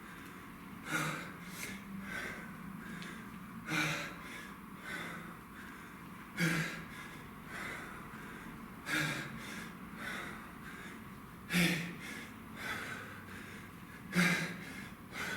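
A man breathing hard through a kettlebell set: a sharp, forceful exhale about every two and a half seconds, with quicker, softer breaths between.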